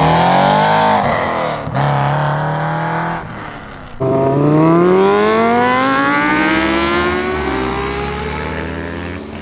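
A car engine accelerating hard with gear changes. Its note climbs, drops at a shift about a second and a half in and holds steady, then comes in loud again about four seconds in and climbs before levelling off and slowly fading.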